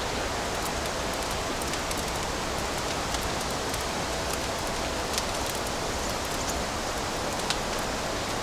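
Wood fire crackling in a fireplace: a steady hiss with scattered sharp pops, the loudest about five and seven and a half seconds in.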